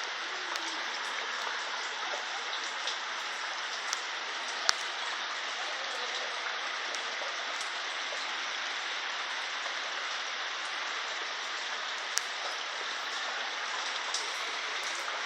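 Steady rush of heavy rain and floodwater running along a flooded street, with a few sharp ticks standing out.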